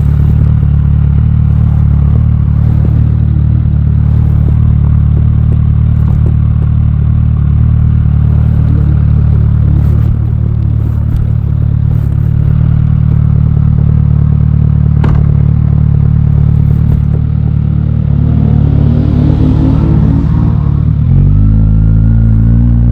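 Aprilia Tuono 660's parallel-twin engine running at steady revs under way, then revving up in a rising pitch about eighteen seconds in and settling at a higher steady note near the end. A single sharp click is heard in the middle.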